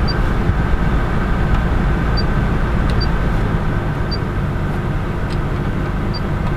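A truck's engine idling: a steady low rumble, with a few short, faint high beeps at uneven intervals.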